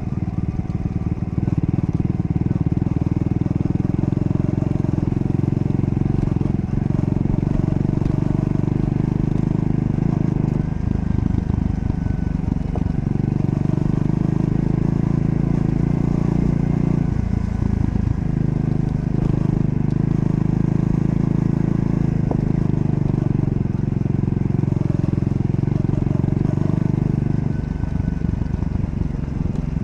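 Triumph Scrambler 400 X's single-cylinder engine running steadily under way. The note breaks and changes pitch briefly about eleven seconds in, again near eighteen seconds, and once more near the end.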